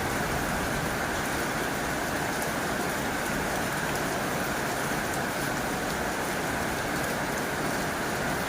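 Heavy rain drumming steadily on a tin roof, a constant even hiss of drops.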